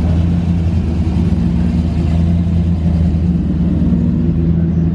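A car engine idling close by, a low, steady note that holds without revving.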